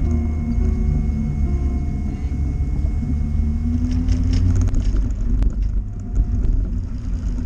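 Steady low vehicle rumble, with a few short clicks about halfway through.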